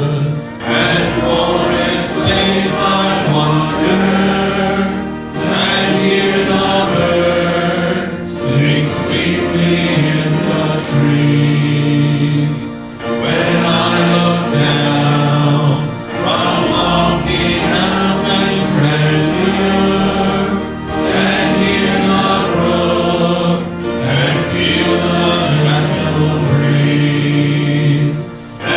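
Group of voices singing a hymn in unison with instrumental accompaniment, in phrases a few seconds long with short breaks between them.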